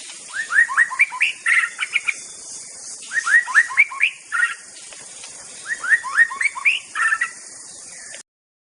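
White-rumped shama (murai batu medan) singing: three phrases of quick rising whistled notes, each about a second and a half long, with short pauses between them. The sound cuts off suddenly near the end.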